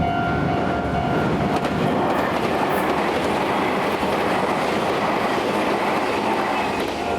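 Meitetsu limited express Panorama electric train passing through a level crossing, a loud, steady rush of wheels on rails that drowns the crossing's warning bell. Near the end the train clears and the bell's ringing comes back.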